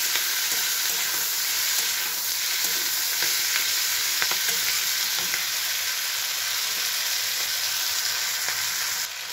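Potatoes and onion flower stalks sizzling as they stir-fry in hot oil in a metal kadai, turned over with a spatula that scrapes and taps the pan now and then. The sizzle steps down quieter just before the end.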